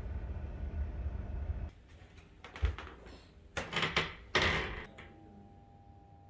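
A steady low rumble that cuts off, then a sharp click and a sliding door run along its track in two strokes.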